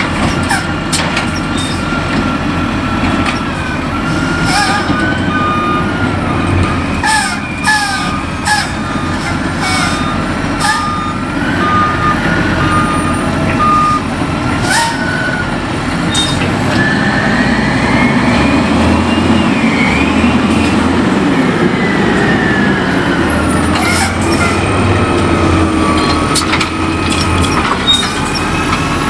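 Wayne Curbtender rear-loader recycling truck working: diesel engine running steadily, with metallic clanks, a run of evenly spaced reversing beeps at one pitch, and a hydraulic whine that rises and falls in pitch in the second half.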